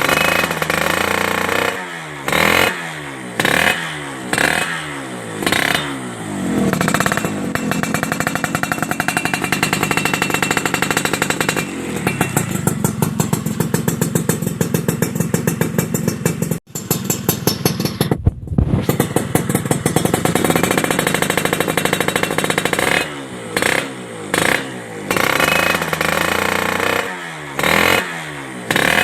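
Suzuki Satria motorcycle engine revved through a WRS racing exhaust: quick throttle blips about once a second, then held at high revs for around fifteen seconds with a brief break in the middle, then short blips again.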